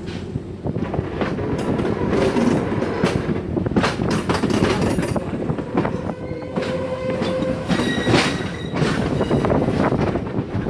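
Passenger train rolling slowly in reverse through a wye: rumbling, with irregular clacks and knocks of wheels over rail joints and switch points, and a wheel squeal about six to eight seconds in.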